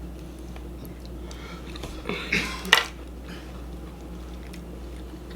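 A person eating, chewing between remarks, with a brief burst of eating or utensil noise and a sharp click a little over two seconds in, over a steady low hum.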